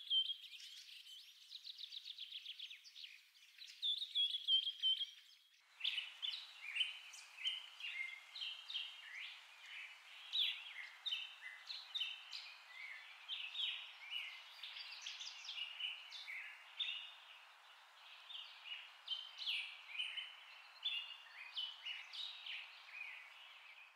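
Birds singing: quick trills at first, then, from about six seconds in, a dense chorus of many chirping birds over a steady hiss.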